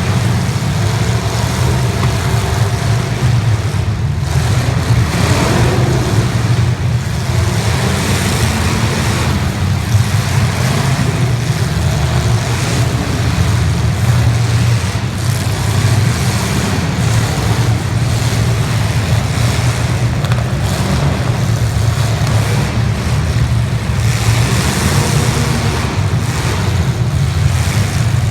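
Engines of several demolition derby cars running loudly in a continuous low rumble, with occasional short knocks.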